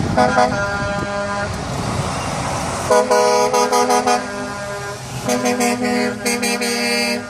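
Trucks in a passing convoy sounding their air horns: three blasts, the last one the longest, over the rumble of the engines and tyres.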